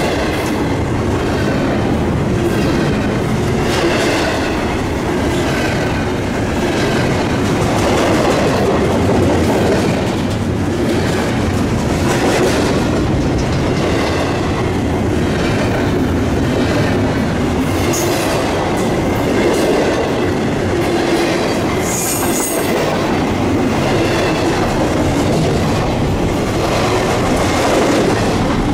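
Intermodal freight train cars rolling past: a steady rumble with the wheels clicking over rail joints, and a couple of brief high wheel squeals near the end.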